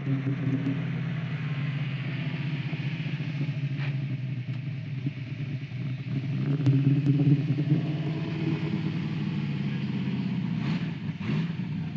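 Car engine running with a steady, low exhaust note, getting louder briefly about seven seconds in; it sounds healthy.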